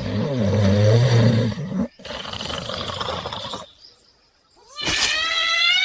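Animal sound effects: a low, wavering roar for about two seconds, then a stretch of noise and a short near-silent gap, and near the end a high call that rises in pitch.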